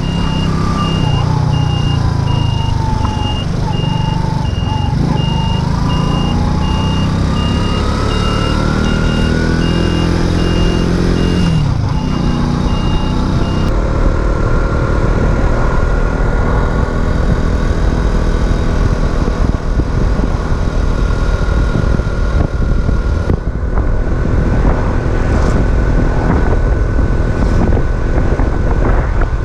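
Racer Alpha RC50 moped's 50cc single-cylinder four-stroke engine running under way, its pitch falling and rising, with a brief dip about 11–12 s in like a gear change, then steady cruising with wind noise. A regular high electronic beeping runs alongside for about the first 14 s, then stops.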